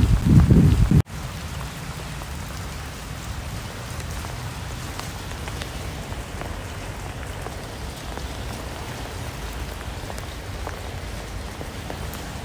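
Rain falling steadily, an even hiss with scattered drop ticks. During the first second a louder, deeper rumble plays, and it cuts off suddenly about a second in.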